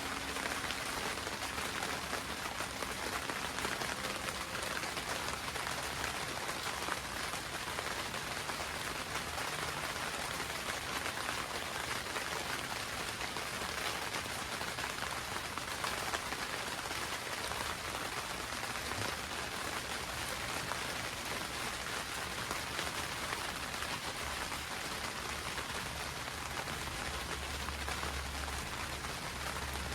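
Steady rain drumming on a greenhouse roof, a dense patter of many fine drop ticks heard from inside.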